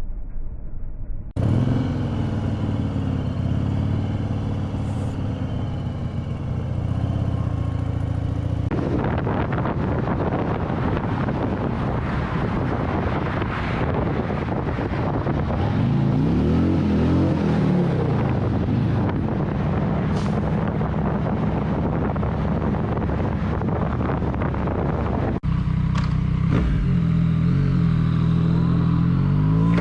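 Road vehicle engines running and revving with wind and road noise, over several back-to-back clips that change abruptly about 1.5, 9 and 25 seconds in. Engine pitch rises and falls several times in the middle, and rises again near the end.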